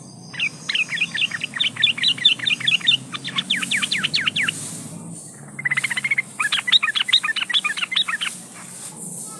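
Yellow-vented bulbul (trucukan) singing: fast runs of chirping notes, about ten a second, in several bursts with short pauses between them.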